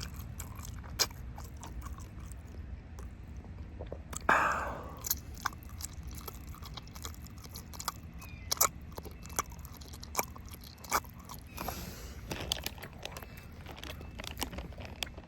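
Close-miked chewing and biting of juicy rotisserie chicken: a string of short wet mouth clicks and smacks, with one louder, longer burst about four seconds in.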